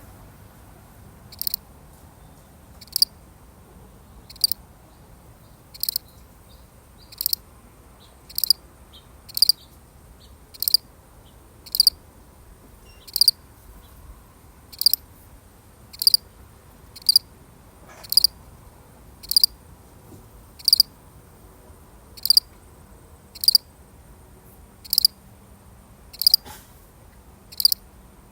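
A single cricket chirping: short, even chirps about one every second and a half at first, coming a little faster, about one a second, later on.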